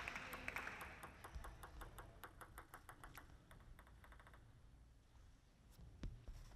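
Near silence in a large hall, with faint, quick taps or clicks that die away after about four seconds.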